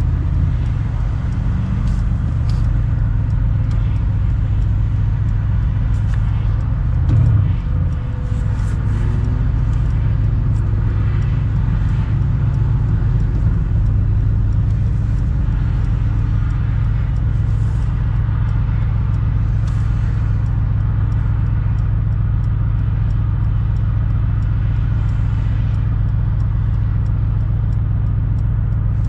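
Mercedes-AMG C63's twin-turbo V8 running at a steady drone under way, heard from the open cabriolet. There is a brief louder bump about seven seconds in.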